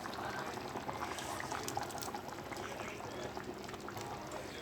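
Chicken curry gravy simmering and bubbling in a cheenachatti (wok-style kadai), with a steady hiss and scattered small pops.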